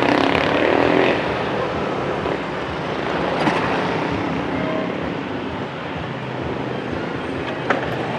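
Street traffic with motorbikes and cars going by, loudest as one passes close in the first second. A single sharp click comes near the end.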